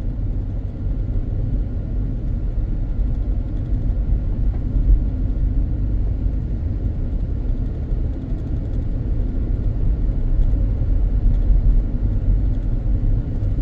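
Steady low rumble of a car driving, with tyre and engine noise heard from inside the cabin.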